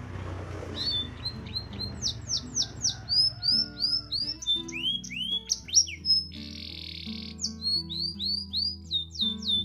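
Canary singing a long, fast song of repeated chirps that sweep down in pitch, with a harsh buzzy roll about six and a half seconds in. Background guitar music plays underneath.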